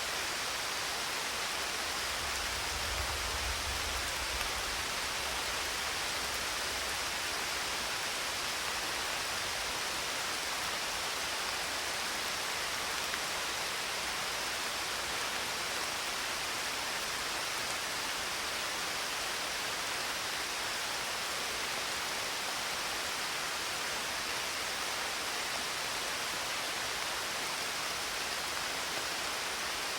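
Steady, even rainfall, with a brief low rumble of distant thunder about two seconds in.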